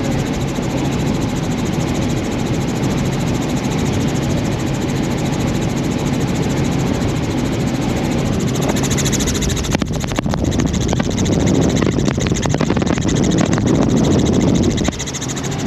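Helicopter engine and rotor heard from inside the cabin in flight: a loud, steady drone with a low hum. It grows louder in the last third, then drops suddenly near the end.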